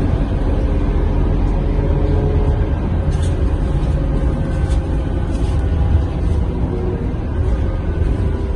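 Scania K230UB city bus's five-cylinder diesel engine running, with a steady low drivetrain and road rumble heard from inside the passenger cabin. A few faint ticks or rattles are heard around the middle.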